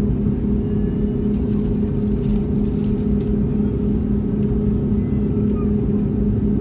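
An engine running at a steady speed: a constant low drone with a steady hum and rumble underneath.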